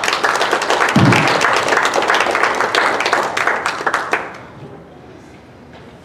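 Small congregation applauding at the end of a song, a dense patter of hand claps that dies away about four seconds in. A short voice is heard about a second in.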